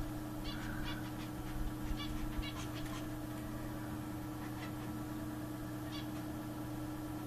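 Zebra finches calling: short, scattered nasal beeping calls, more of them in the first few seconds, over a steady low hum.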